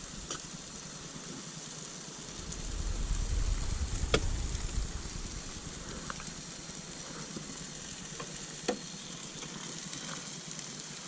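Vegetables sizzling steadily in a Ridge Monkey frying pan, with a few sharp clicks. A low rumble swells and fades about a quarter of the way in.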